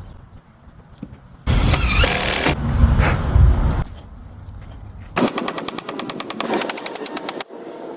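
Woodworking power tools in quick succession: a short whining burst with shifting pitch, a heavy low rumble, then a rapid, even rattle of sharp strikes, about ten a second, for about two seconds.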